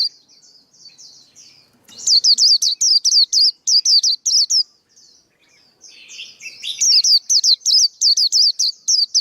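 Male white-eye singing: fast runs of high, sweet slurred notes, about five a second. The song starts softly, runs loud from about two seconds in, drops to quieter twittering, then runs loud again near the end.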